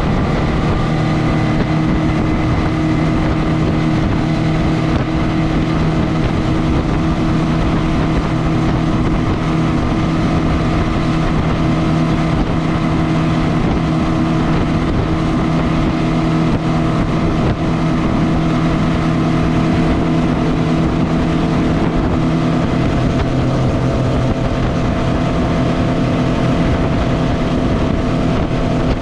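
Mercury 150 hp four-stroke outboard running with the boat under way: a steady engine note over a constant rush of noise. The engine pitch drops slightly about 23 seconds in.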